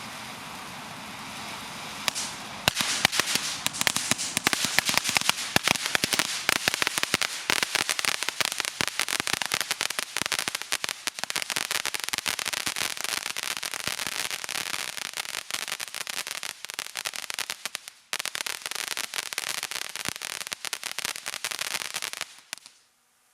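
Fireworks crackling: a fizzing hiss for about two seconds, then a dense, rapid run of sharp pops and crackles that goes on for about twenty seconds and cuts off abruptly near the end.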